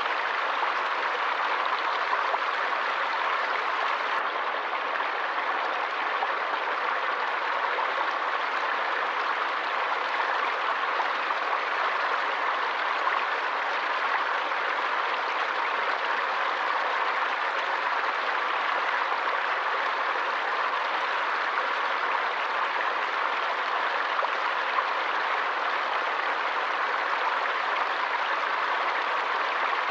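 Forest stream rushing steadily, an even hiss of flowing water with nothing else standing out.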